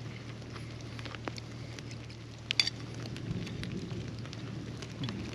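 Campfire crackling with light rain pattering, scattered sharp ticks and one louder crackle about two and a half seconds in.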